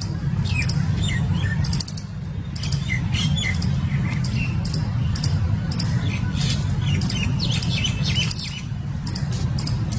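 Birds chirping in many short, high calls throughout, over a steady low rumble.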